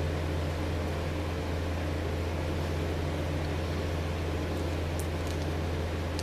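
Steady low hum with an even hiss behind it, unchanging throughout, with a few faint ticks about five seconds in.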